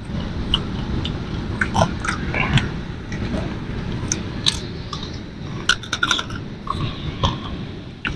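Cooked crab being bitten and chewed close to the microphone, with scattered sharp cracks and crunches of shell. A steady low rumble runs underneath.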